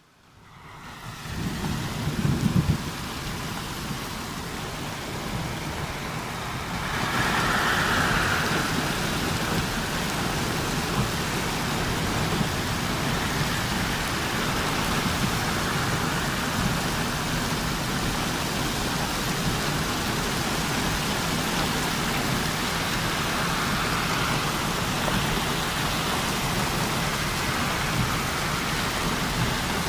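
Heavy rain falling as a steady hiss, with a low rumble about two seconds in. About seven seconds in, the rain grows louder and fuller.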